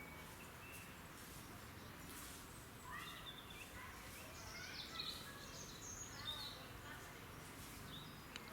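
A songbird singing a rapid, varied song phrase of high chirps and sweeping notes, starting about three seconds in and lasting about four seconds, over a steady low background noise.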